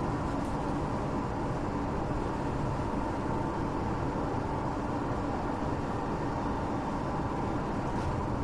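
Tokyo Metro 8000-series electric commuter train heard from inside a passenger car while running between stations: a steady rumble of wheels on rail and car body, with faint steady tones in it.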